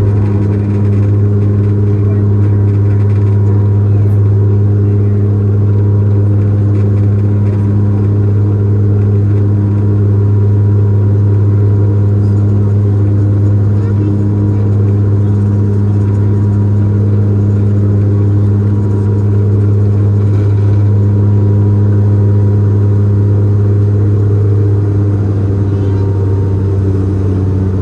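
Bombardier Dash 8-Q400's Pratt & Whitney PW150A turboprops and six-blade propellers running, heard inside the cabin as a loud, steady low drone with a hum that holds one pitch.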